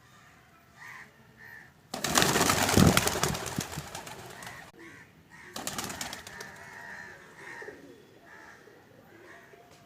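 Pigeons cooing among faint short bird calls. Two loud bursts of rustling noise come about two and five and a half seconds in; the first lasts over two seconds and is the loudest sound.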